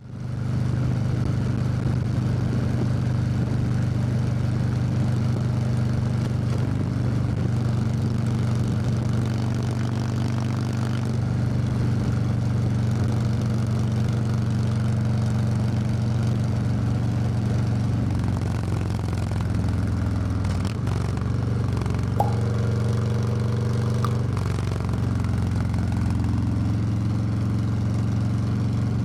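Harley-Davidson Low Rider S V-twin engine running steadily, its note holding an even pitch. About 22 seconds in there is a sharp click and a short higher-pitched tone on top of the engine.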